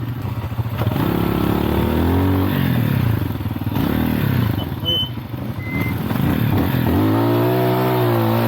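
Lifan Xpect dual-sport motorcycle engine being ridden off-road. It revs up and eases off again in repeated swells, with two strong rev-ups, one a second or so in and one near the end.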